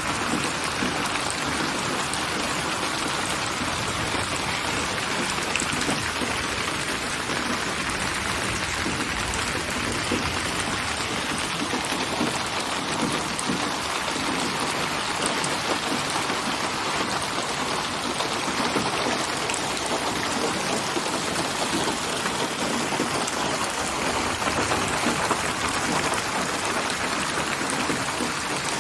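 Steady rain falling on surfaces, a dense even patter of drops, built from rain recordings and panned around the listener in binaural 8D surround.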